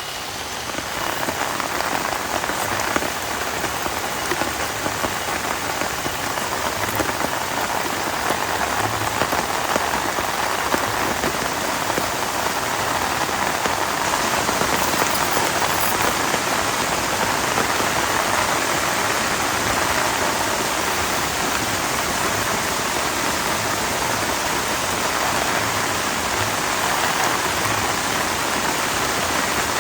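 Heavy rain falling steadily, a dense hiss of drops that grows a little louder over the first several seconds, then holds even.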